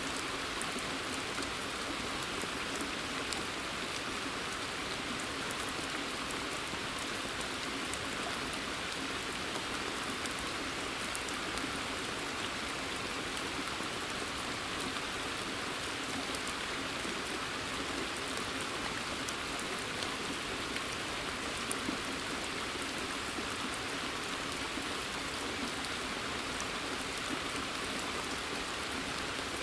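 Steady rain falling in a forest, a constant hiss with scattered individual drops ticking and pattering onto the water of a pond.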